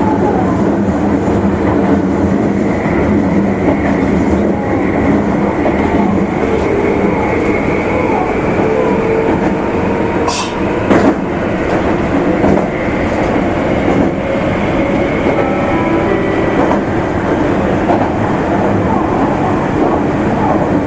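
Meitetsu electric train running on the Nagoya Main Line, heard from inside the car: a steady rumble of wheels on rail with humming motor tones and occasional clicks over rail joints. A brief high hiss comes about halfway through.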